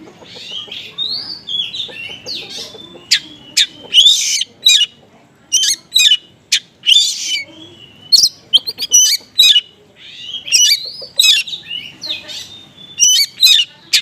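Oriental magpie-robin (kacer) singing loudly and fast: sharp, piercing chirps and whistles come in quick bursts, mixed with warbling phrases that copy small-bird calls.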